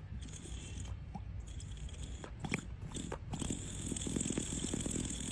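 Brass gourd-shaped điếu cày (Vietnamese thuốc lào water pipe) being drawn on: after a few sharp clicks, the water inside starts a rapid, rattling bubbling gurgle about three seconds in.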